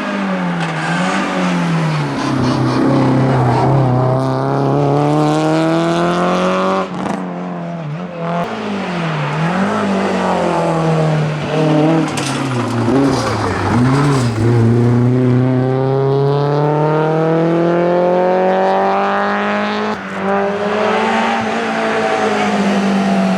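Rally car engine at full throttle, its pitch climbing through the gears with sharp drops at each upshift. Around 8 and 13 seconds in it falls and flares in quick blips, like downshifts under braking, before pulling hard again.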